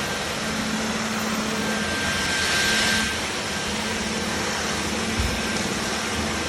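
Dyson Gen5outsize cordless stick vacuum running: a steady rush of air with a thin high whine, briefly louder and hissier about two to three seconds in.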